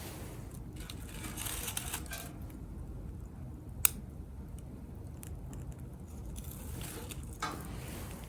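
Small wood fire burning in a compact tabletop grill, with a low steady rumble and scattered faint crackles, and one sharp pop from the wood about four seconds in.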